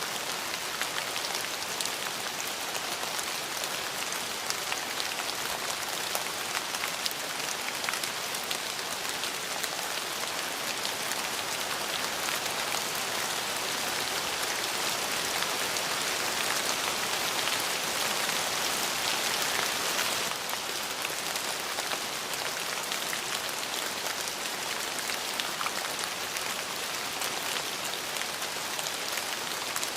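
Steady rain falling, a dense patter of drops on a surface that swells slightly for a few seconds midway.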